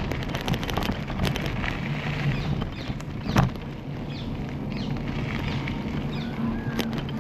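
Bicycle riding noise: tyres rolling on the path and wind buffeting the action-camera microphone, with scattered light clicks and one sharp knock about three and a half seconds in.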